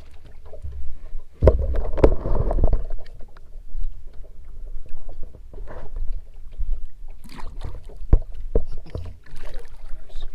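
Knocks and bumps of handling aboard a fishing boat over a steady low rumble, with a louder rough stretch of knocking and scuffling about one and a half seconds in and a few more sharp knocks near the end.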